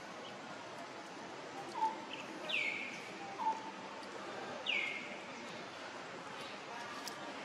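A bird calling twice, each time a short low note followed by a louder call that sweeps down in pitch, over a steady background hiss.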